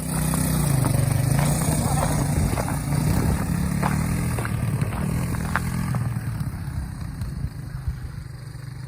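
Honda XR200R dirt bike's single-cylinder four-stroke engine running as the bike is ridden, its note rising and falling. It grows fainter over the last couple of seconds.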